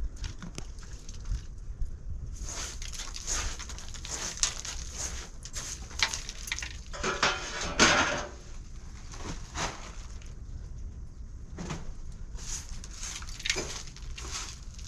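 Irregular knocks, scrapes and rustling, with a louder scraping rustle about seven to eight seconds in, over a steady low rumble.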